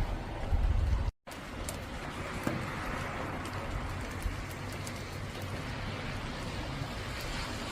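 Steady hiss of rain with faint scattered ticks, after a deep rumble in the first second that is cut off abruptly by an edit.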